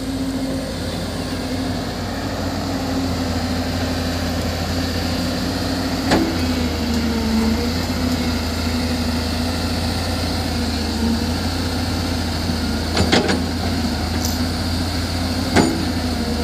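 Heavy construction-machinery diesel engine running steadily at a low, slightly wavering pitch, with a few sharp metallic knocks about six, thirteen and fifteen seconds in.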